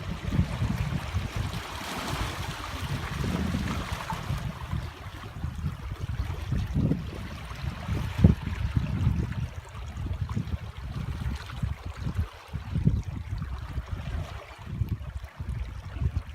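Sea waves washing and lapping at the shore. A brighter wash swells up about two seconds in, over a continuous uneven low rumble.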